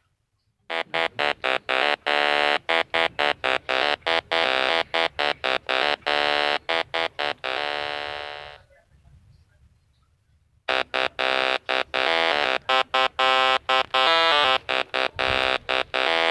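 8-bit style synthesized chiptune tones: rapid runs of short, buzzy notes in two long phrases, with a pause of about two seconds in the middle.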